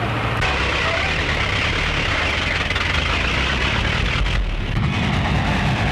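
Motor vehicle engine running steadily, a noisy old film soundtrack with abrupt shifts in tone where the scene cuts.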